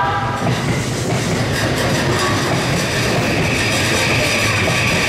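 JR East 485 series train running out over station points and curves: steady rumble and wheel clatter, with a high wheel squeal that starts about a second and a half in and grows louder.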